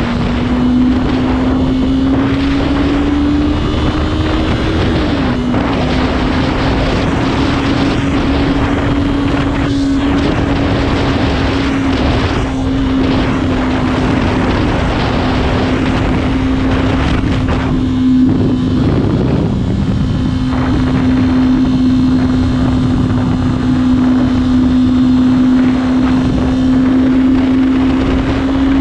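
Motorcycle engine running at a steady cruising speed under heavy wind rush. Its pitch climbs a few seconds in, then drops sharply as the rider shifts gear, and stays steady after that.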